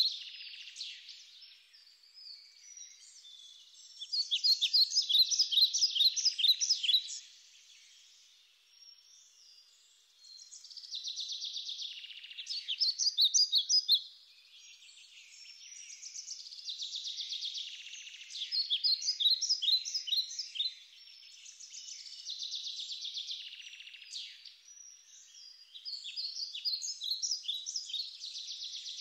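Songbird singing in repeated phrases of rapid, high chirping notes, each phrase lasting a few seconds with short pauses between.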